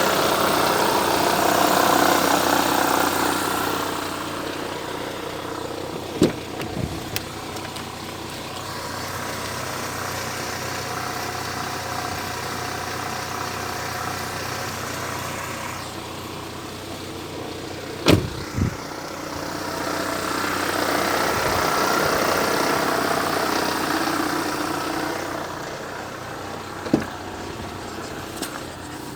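Lada Vesta idling with a diesel-like clatter and rattle from the gearbox. The uploader blames a defective clutch disc for it, not the gearbox input-shaft bearings or the release bearing. The rattle grows louder near the start and again about two-thirds of the way in, and there are a few sharp knocks about 6, 18 and 27 seconds in.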